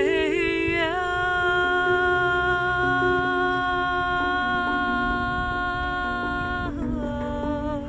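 A voice singing without words: it glides up, holds one long note for about six seconds, then slides down near the end. Under it ring sustained tones of a glucophone (steel tongue drum), with a low rumbling noise beneath.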